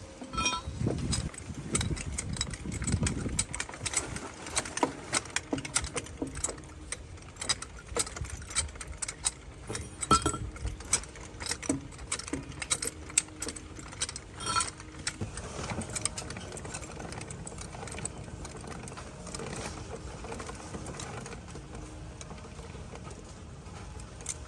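Irregular metallic clinks and knocks of tools at work on a heavy truck tyre, thick for the first fifteen seconds or so, then thinning to a steady low background noise.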